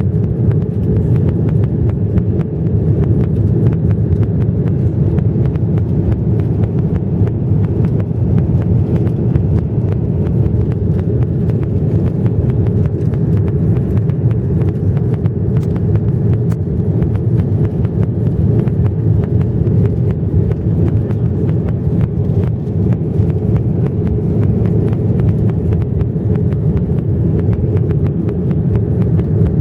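Steady low roar of an Airbus A330-300 airliner in flight, its engine and airflow noise heard from inside the cabin.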